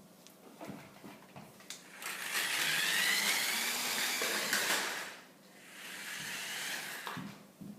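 RC rally car's motor whining at speed, rising in pitch about two seconds in and fading away near five seconds. A second, weaker run of whine follows until near the end.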